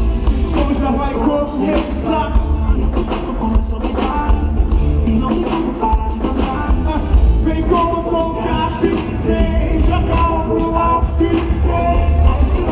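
Live gospel band with singing: heavy bass and drums under sung melody lines.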